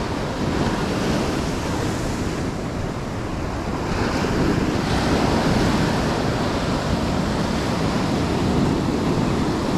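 Ocean surf washing onto the shore, with wind buffeting the microphone. The wash swells a little about four seconds in.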